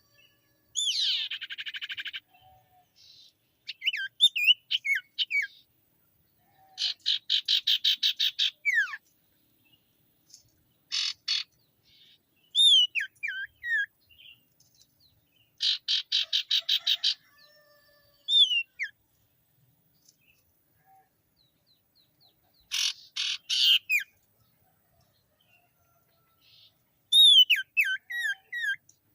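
Common iora (cipoh, sirtu) singing energetically: bursts of rapid repeated notes lasting a second or two, alternating with short whistles that slide down in pitch, with brief pauses between phrases.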